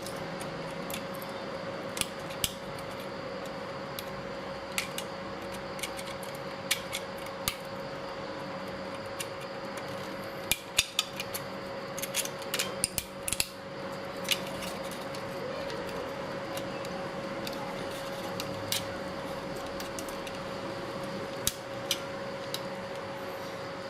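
Scattered light metallic clicks and clinks of hand tools and metal parts being handled, with a quick flurry of them about halfway through, over a steady hum.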